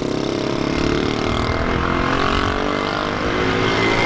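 An engine running, its pitch climbing over the first second and a half and then holding steady.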